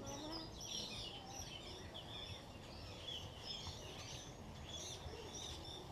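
Many small aviary birds chirping and twittering over one another in quick, high, overlapping calls, over a steady low rumble.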